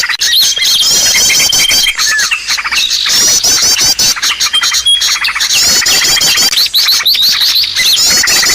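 A bird-lure recording of many small birds' calls layered together: rapid high chirps, fast trills and thin steady whistles overlapping without a break, with the same phrases coming round again every few seconds.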